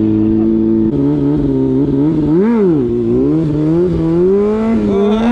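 Motorcycle engine running at idle, its pitch dropping about a second in, blipped once with a quick rise and fall in revs about two and a half seconds in, then revs creeping up toward the end.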